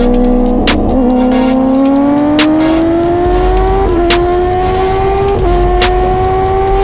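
Superbike engine under hard acceleration, the revs climbing steadily in each gear and dropping back at quick upshifts, about three of them. Short sharp pops come through now and then.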